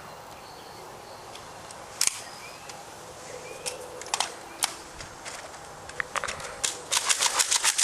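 Nerf foam-dart blasters firing: single snapping shots a second or two apart, then near the end a rapid string of shots, several a second, from a blaster being slam-fired.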